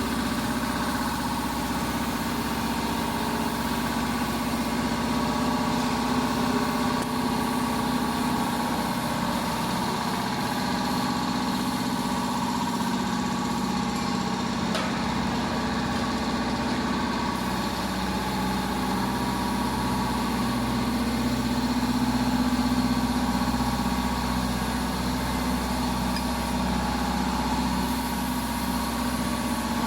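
Corn husking and shelling machine running steadily: a continuous engine-driven drone with a constant pitch.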